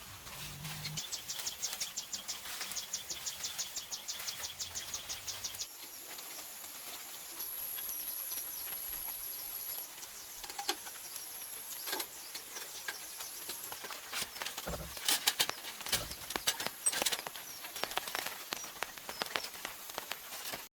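Insects chirping: a rapid, even pulsed chirp, about seven a second, for the first five seconds, then a thin, steady, high-pitched buzz. Scattered sharp clicks and knocks come in the second half.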